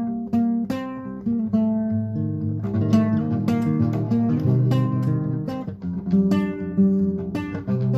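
Acoustic guitar playing an instrumental piece, plucked and strummed notes and chords over a moving bass line.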